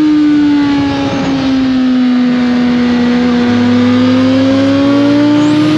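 2021 Suzuki GSX-R1000's inline-four engine through an Austin Racing slip-on exhaust, running at a steady pace under way. Its pitch sags slightly through the middle and climbs back near the end.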